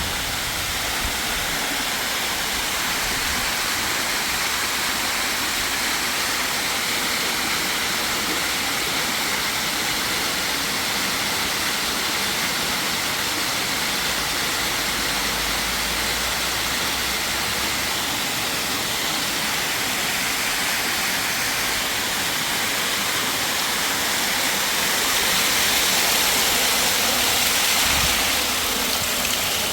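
Steady rushing of water, loud and unbroken, swelling a little louder a few seconds before the end.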